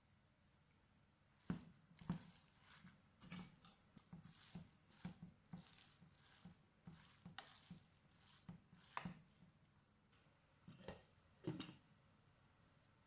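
A kitchen utensil knocking and tapping softly in a run of short strikes, about two a second, with a louder pair of knocks near the end.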